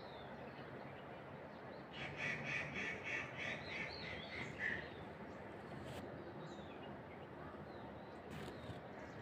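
A bird calling a quick run of repeated notes, about three a second, starting about two seconds in and lasting nearly three seconds. Fainter chirps from other birds sound around it over a quiet outdoor background.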